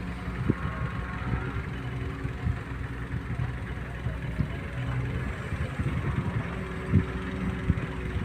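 Heavy diesel engine running steadily at low speed, with occasional short knocks.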